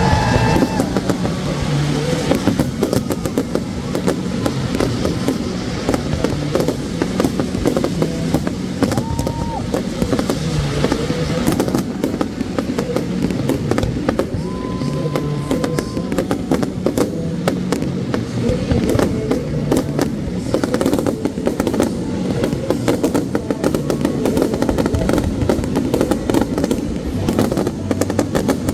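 Aerial fireworks display: a dense, continuous run of bangs and crackling pops over a low rumble.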